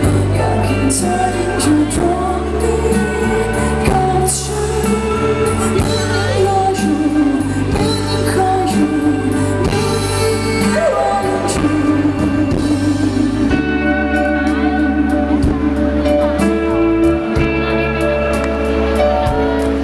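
Live pop band performance: a woman singing over a band with steady bass and drums.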